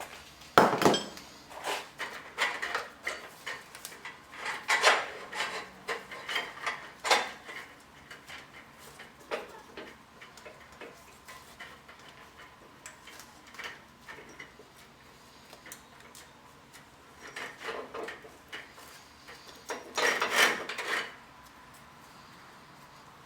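Intermittent metal clinks, clanks and scraping as a clevis hook is fitted to a steel winch cable and pinned with a straight pin and cotter pin. The handling comes in bursts near the start and again near the end, with a quieter stretch in the middle.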